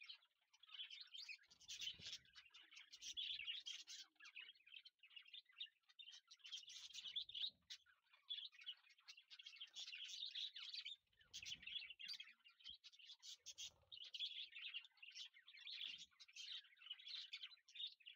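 Faint, continuous chirping and twittering of many small birds, with a few soft low bumps now and then.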